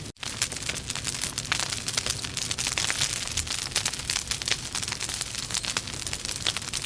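Wood logs burning in a fireplace, crackling and popping with many irregular snaps over a steady hiss. The sound drops out for a split second just after the start.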